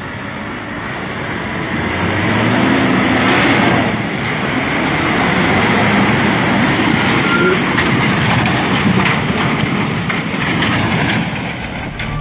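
Scania P480 truck's diesel engine working hard while manoeuvring in mud. It grows louder over the first few seconds, then stays loud and steady.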